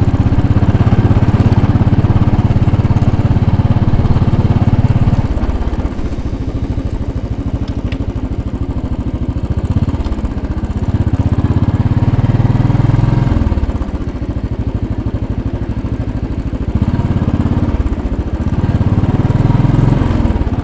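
2010 Royal Enfield Bullet 500's single-cylinder four-stroke engine running under way in traffic. It pulls loudly for about five seconds, then eases off, and swells twice more, about halfway and again near the end.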